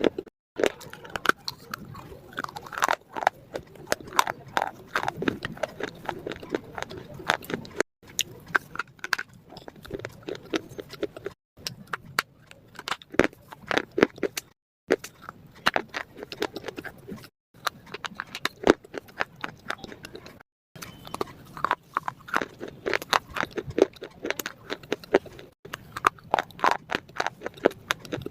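Close-up crunching and chewing of crisp food: irregular sharp cracks and crackles with wet mouth sounds, broken off abruptly several times by short silent gaps.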